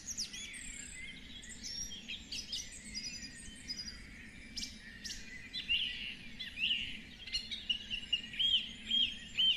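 Several songbirds singing and chirping together in a busy dawn-chorus-like mix of short calls and warbles. Near the end one bird repeats a short arched note about five times.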